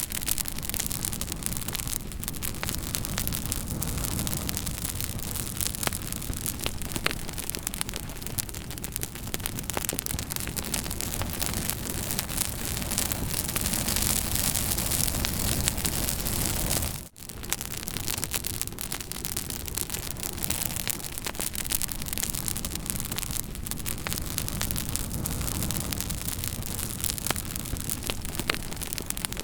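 Campfire burning steadily, a dense hiss and low rumble of flames with scattered sharp crackles and pops. The sound drops out for an instant a little past halfway, then resumes.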